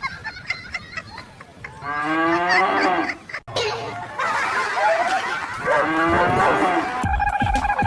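A cow mooing twice, each call a drawn-out moo that rises and bends in pitch. Steady held tones come in near the end.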